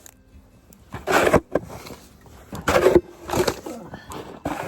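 Snow shovel scraping and scooping packed snow, about four strokes a second or so apart, clearing a path so the door can open.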